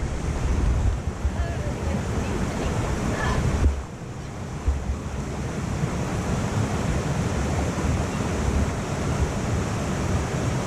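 Steady rushing of a waterfall, with wind buffeting the microphone as a low rumble that eases about four seconds in.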